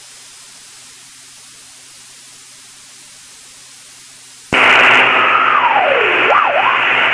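Aircraft intercom hiss with a faint steady engine hum. About four and a half seconds in, a loud burst of radio static cuts in abruptly, with a whistle in it that swoops down and back up.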